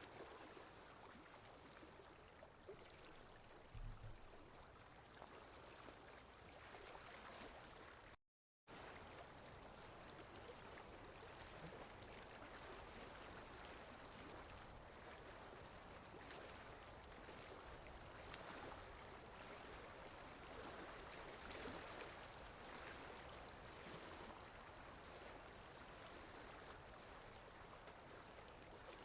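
Steady, soft rainfall as an even hiss of drops, with a faint low thud about four seconds in. It cuts out completely for about half a second around eight seconds in, then resumes.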